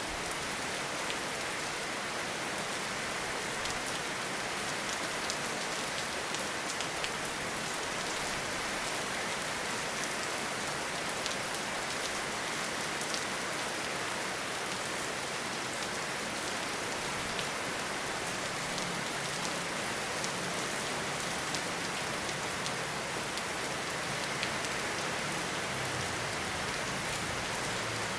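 Steady rain falling in a forest, an even hiss dotted with the ticks of single drops striking close by. A low rumble comes in during the second half and grows toward the end.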